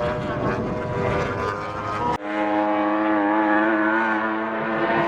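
MotoGP racing motorcycle engines at high revs, several notes overlapping. About two seconds in the sound breaks off abruptly to a single engine note that climbs slowly in pitch as the bike accelerates.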